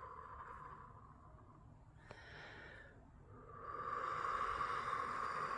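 A woman's slow, breathy exhales, blown out as part of a light-language healing. One fades away over the first two seconds, a short one follows a little after two seconds, and a longer, louder one swells from about three and a half seconds in.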